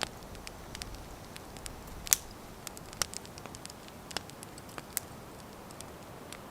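Wood fire crackling: scattered sharp pops over a soft steady hiss, with one louder pop about two seconds in.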